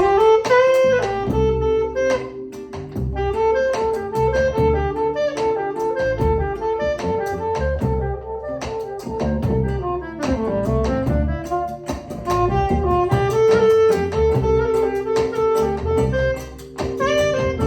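Live band playing an instrumental passage: a lead melody with sliding pitch bends over a low bass line and plucked chords.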